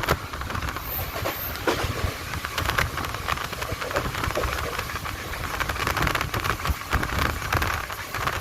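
Passenger train running along the track: a steady rumble with many irregular clicks and rattles of wheels and carriages.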